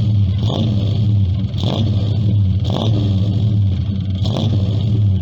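A vehicle engine running steadily, a deep even hum with short swells of rasp about once a second.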